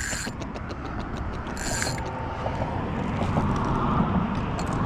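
Fishing reel being worked, a light mechanical whirring with faint clicks, plus a couple of brief rattles.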